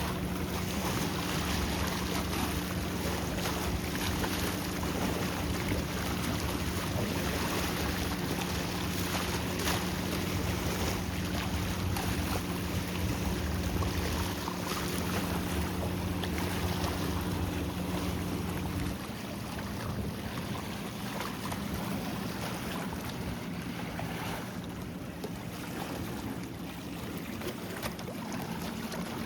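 A boat's engine droning steadily over the wash of waves and wind. About two-thirds of the way through the engine sound drops away and becomes quieter, leaving a fainter hum under the surf and wind.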